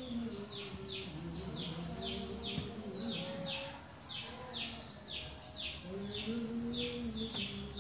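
A bird chirping over and over: a short high chirp that slides downward, repeated evenly about twice a second. Underneath runs a low hum of held notes that shift slowly.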